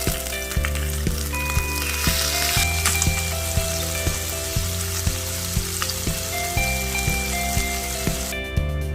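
Samgyeopsal (pork belly) sizzling as it fries, a steady crackling hiss, over background music; the sizzling cuts off near the end, leaving the music.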